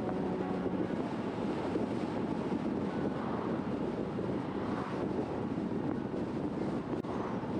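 Steady wind buffeting the microphone over the rush of road and tyre noise from an electric bike riding at speed.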